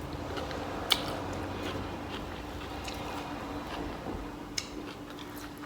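Close-up chewing and mouth sounds of someone eating, with a few sharp clicks over a faint steady hum.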